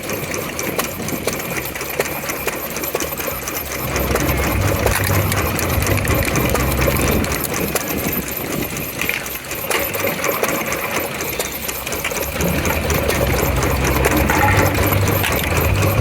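Vintage engine running with a rapid, regular mechanical beat, louder from about four seconds to nine and again from about twelve seconds on.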